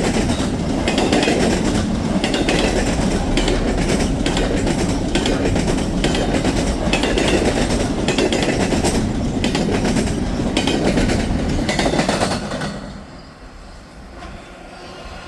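Freight train cars rolling past, their wheels clicking rhythmically over the rail joints. The rumble drops away sharply about twelve seconds in as the end of the train goes by.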